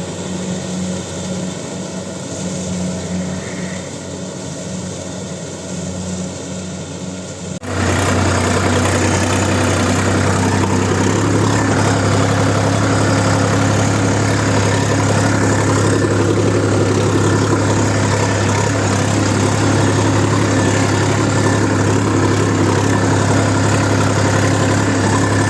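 Heavy farm machine's diesel engine running steadily. About a third of the way in the sound switches abruptly to a louder, deeper engine drone that runs on steadily.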